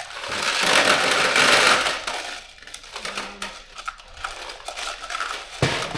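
Loose metal fasteners clattering: a loud rush of rattling for about two seconds, then scattered light metallic clinks and a sharper knock near the end.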